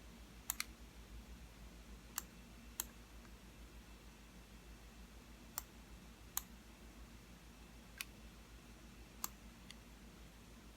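Computer mouse button clicking, single clicks a second or more apart and once a quick double click, over a faint steady low hum.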